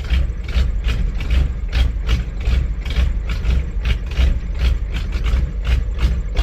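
Ford 6.9 IDI naturally aspirated diesel V8 idling loudly with its knocking diesel clatter: a steady deep rumble under sharp regular ticks, about four or five a second.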